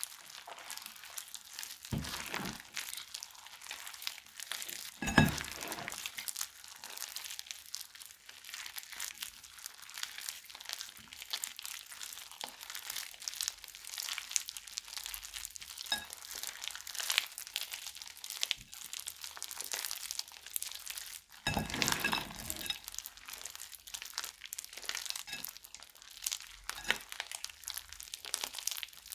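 Crunchy slime being squeezed and kneaded by hand: a dense run of small crackles and crinkles, with a few louder pops now and then.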